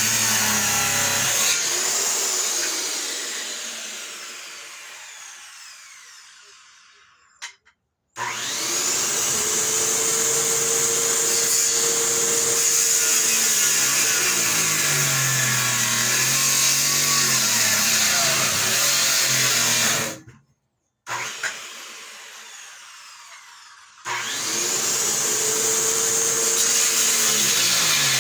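An electric circular saw runs under load and winds down twice when released, then starts back up. The dull blade cuts with a little smoke.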